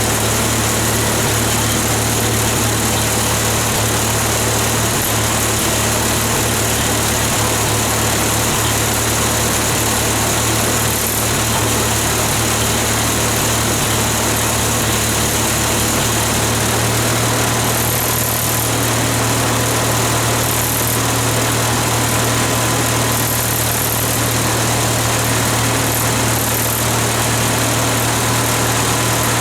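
Hercules IXB four-cylinder engine of a 1954 Hobart 10 kW generator idling steadily, freshly cold-started after years of sitting.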